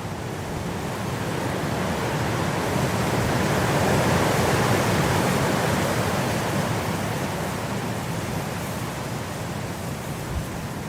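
Blizzard wind rushing. A gust swells to its strongest about four seconds in, then eases off.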